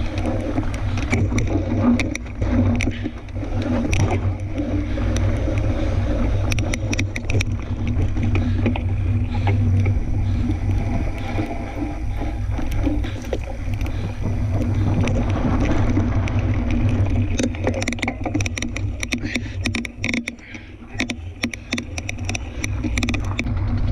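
Fat-tire tandem mountain bike rolling along a dirt trail, with a steady low wind rumble on the microphone. Tyre noise and frequent sharp clicks and rattles from the bike and trail run through it, and it eases briefly near twenty seconds.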